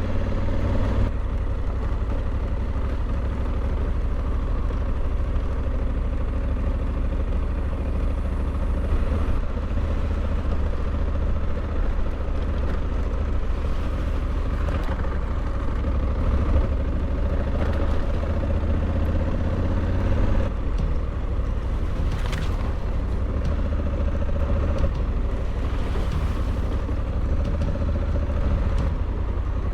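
Honda Africa Twin CRF1100L's parallel-twin engine running steadily under a low rumble while the motorcycle is ridden slowly over a wet, rocky trail, with a couple of sharp knocks in the second half.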